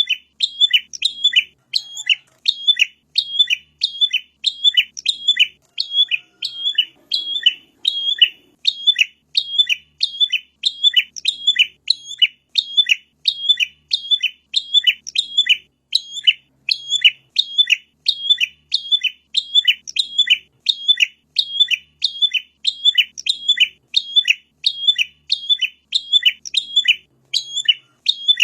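Prenjak (prinia) song: short, sharp chirps repeated in a fast, very even rhythm, about two a second, without a break.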